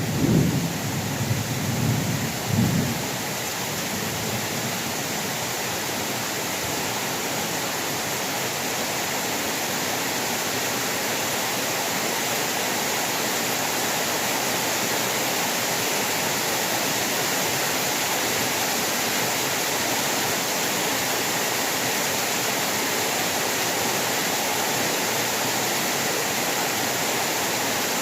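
Heavy rain falling steadily as an even hiss, with a low rumble of thunder in the first few seconds that dies away.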